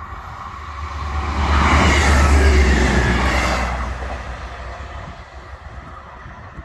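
A Class 158 diesel multiple unit passing over the level crossing. The sound builds to a loud peak about two seconds in, then fades away over the next few seconds.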